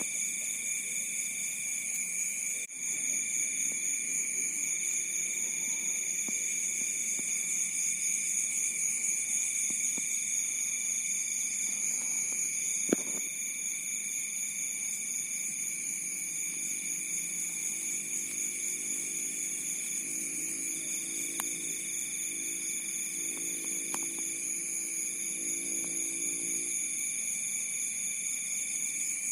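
Crickets calling at night in a continuous, steady high-pitched trill, with another insect call joining in bouts of about two seconds. A single sharp click about halfway through.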